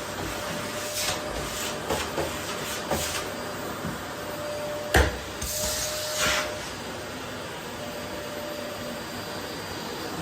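Vacuum cleaner running steadily with a faint steady whine, its nozzle working over the floor. A few light knocks in the first three seconds, a sharp knock about five seconds in, then a brief rush of hiss as something is sucked up.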